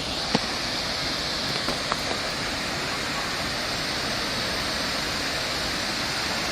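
Steady rush of river water spilling over a low dam, an even hiss without pauses. There are two faint clicks in the first two seconds.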